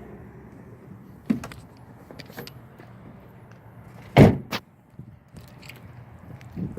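Vehicle door slammed shut with one heavy thump about four seconds in, followed by a smaller knock, over a steady low engine hum and a few light clicks.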